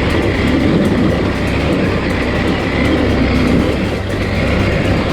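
KTM 890 Adventure R's parallel-twin engine running steadily, with wind and dirt noise.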